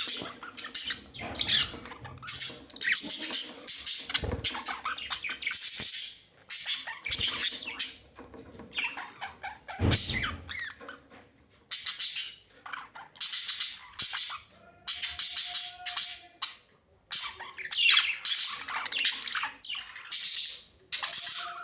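Budgerigars chirping and squawking in rapid, scratchy bursts of chatter, each lasting about a second, with brief pauses between them.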